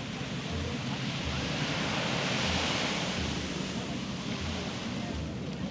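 Sea surf on a sandy beach: a wave breaking and washing up the shore swells to a peak a couple of seconds in, then eases back to a steady wash.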